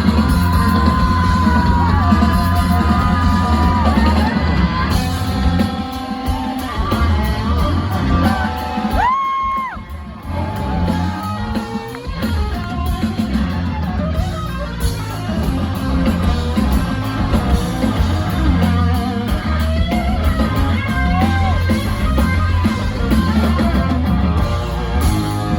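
Rock band playing live and loud: electric guitar, bass and drum kit, with long held, bending high notes over a heavy low end. The band drops back briefly about nine seconds in, then comes back in full.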